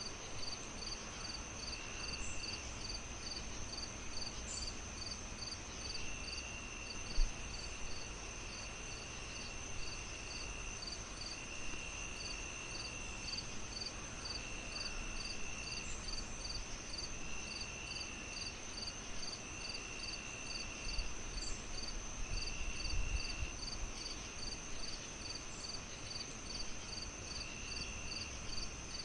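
Crickets chirping in an even rhythm of about two to three chirps a second, over a steady high insect drone and short trills that come and go. Beneath them runs a low fireplace rumble, with one sharp pop about seven seconds in.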